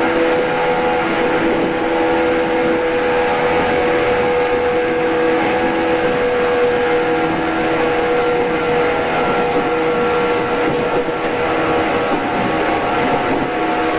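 JR East 113 series electric train running at a steady speed: a level whine from the traction motors and gears over a steady rumble of wheels on rail. Recorded on cassette tape.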